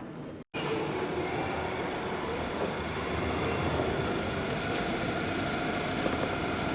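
Steady rumble of a moving vehicle heard from inside, with a few faint steady tones over an even noise.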